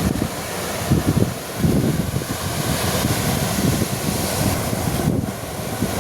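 Sea surf washing steadily on the beach, with irregular gusts of wind buffeting the microphone.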